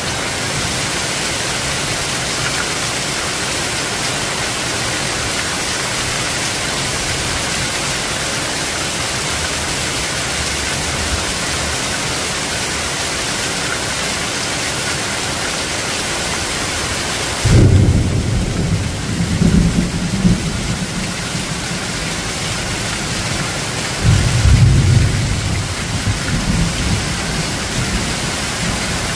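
Steady hiss of heavy rain. About two-thirds of the way in, thunder rumbles in suddenly and rolls on, and a second roll of thunder follows near the end.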